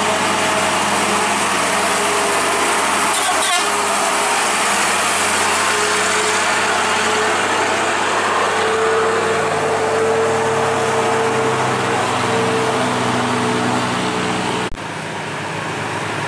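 Heavy truck engine running hard while climbing a steep incline, with tyre and road noise. Its pitch shifts several times in the second half, then the sound cuts off abruptly near the end and comes back a little quieter.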